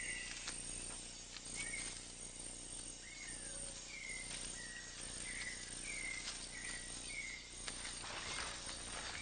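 Tropical rainforest ambience: a bird repeats a short, bending chirp about once a second over a steady, high insect drone.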